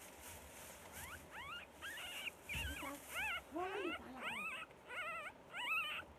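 Newborn puppies, their eyes not yet open, whimpering and squealing: a quick string of short, high cries that waver in pitch, about two a second, starting about a second in.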